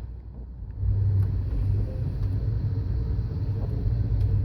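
Amtrak Coast Starlight passenger train running at speed, heard inside a sleeper compartment: a steady low noise of the moving train that grows louder about a second in.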